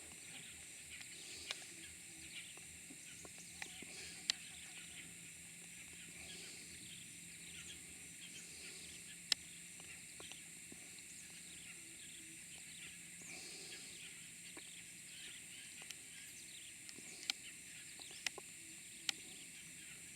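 Faint rainforest ambience: a steady high insect drone with scattered faint bird chirps, and a few sharp clicks.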